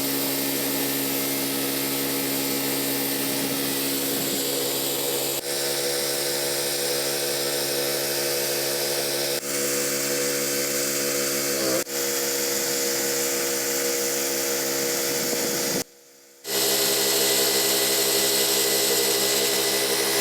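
Pressure-washing rig's engine-driven pump running steadily, with a hiss of spray over it. The sound drops out for about half a second near the end.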